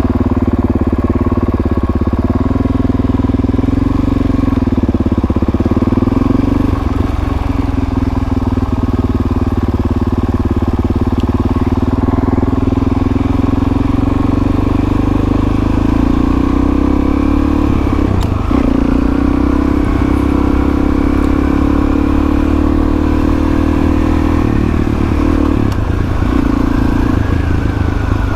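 Dirt bike engine running steadily under way. Its pitch creeps up slowly through the middle and dips briefly twice near the end as the throttle eases.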